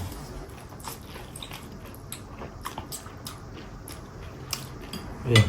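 A person chewing and biting food, with scattered small wet clicks and smacks of the mouth. There is a short vocal sound near the end.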